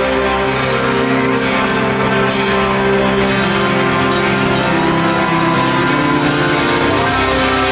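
Live rock band playing an instrumental passage with no vocals: sustained electric guitar and keyboard chords over the rhythm section, with several cymbal crashes in the first half.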